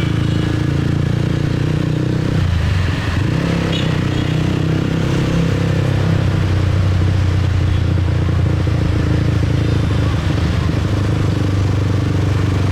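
Motorcycle engine running steadily while riding in city traffic. The engine note dips briefly about two and a half seconds in.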